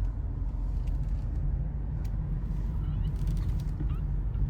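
Steady low rumble of a 1992 Mercedes 500SL's 5.0-litre M119 V8 and tyres while cruising on a test drive. A couple of faint short squeaks come about three seconds in.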